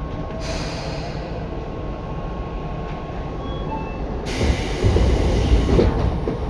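Tobu 9050 series electric train running, heard from on board: a steady low rumble of wheels and running gear. A short hiss comes about half a second in, and a louder rushing burst about four seconds in lasts a second and a half.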